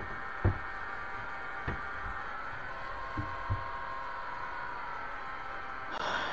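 A few short, dull knocks over a steady low hum, the first the loudest, then a brief rustle near the end.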